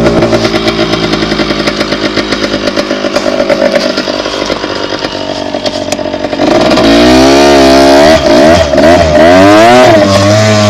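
Dirt bike engine running, steady and easing off at first. About six and a half seconds in it gets louder, the revs rising and falling quickly in repeated swings as the throttle is worked.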